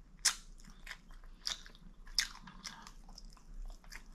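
A person chewing and biting food close to the microphone in a mukbang, with sharp, brief wet crunches and mouth clicks; the strongest comes about a quarter second in, with others near 1.5 and 2.2 seconds.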